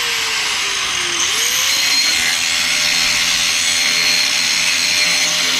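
Angle grinder grinding steel, with a steady loud hiss. Its motor pitch sags under load for about a second, then climbs back up and holds steady.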